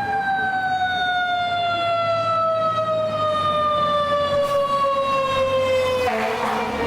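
Federal Signal Thunderbolt fire siren winding down, its wail falling slowly and steadily in pitch. About six seconds in, a rougher, lower sound joins it.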